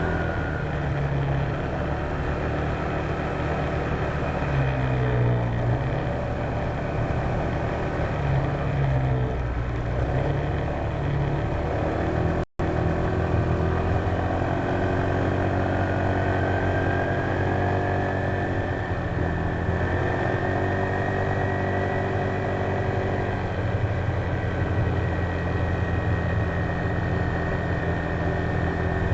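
Honda PCX150 scooter's single-cylinder four-stroke engine running under way, its pitch slowly rising and falling with speed. The sound drops out for an instant about twelve seconds in.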